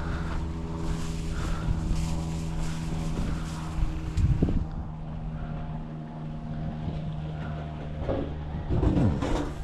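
A motor or engine running steadily with an even low hum, with a couple of brief knocks or rustles about four seconds in and near the end.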